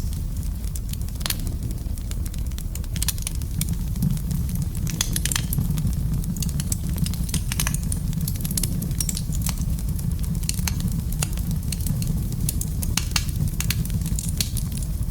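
Wood fire burning in a fireplace: a steady low rumble of flames with frequent sharp crackles and pops, which come more thickly after about five seconds.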